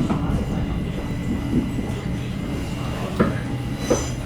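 Uetliberg railway electric suburban train running on the line: a steady low rumble of wheels on rail, with a few sharp clacks about three and four seconds in.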